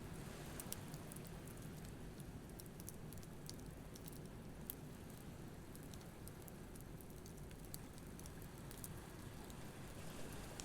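Campfire crackling, with irregular small pops and snaps over a steady low wash of surf breaking on the beach.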